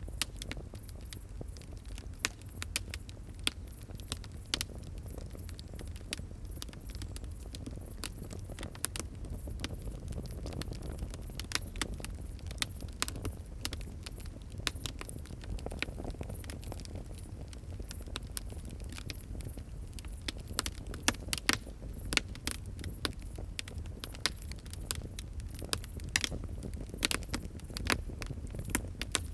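Wood fire crackling steadily, with irregular sharp pops and snaps over a low, steady rumble of the flames.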